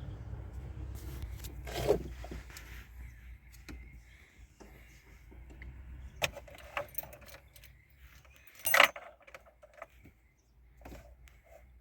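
Small metal objects being handled: a scatter of clicks and metallic clinks, with a louder jangling clatter about nine seconds in. A low steady hum fades out over the first few seconds.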